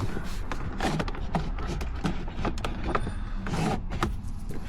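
Hands working the dash trim and instrument cluster surround free inside a car: a run of irregular light plastic clicks and knocks over rustling, with a steady low hum underneath.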